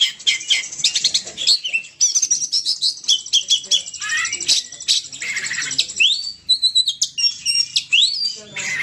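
Oriental magpie-robin (kacer) singing a fast, varied song of whistled notes, chirps and trills that swoop up and down in pitch, almost without pause.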